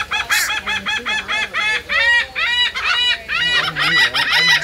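A bird calling loudly in a fast, unbroken series of short, arched, ringing calls, several a second.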